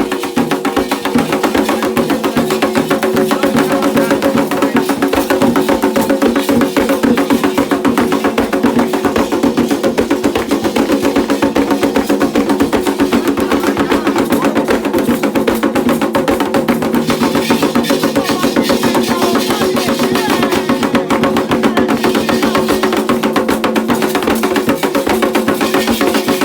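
Candomblé ritual drumming: hand drums and percussion played in a fast, dense, unbroken rhythm.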